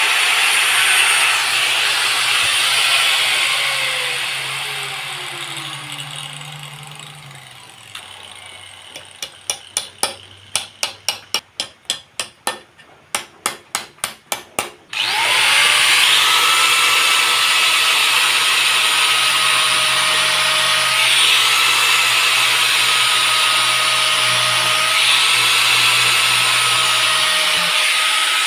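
An electric power tool spins down and fades out. It is followed by a run of sharp, evenly spaced taps, about three a second. About fifteen seconds in, the power tool starts abruptly and runs steadily.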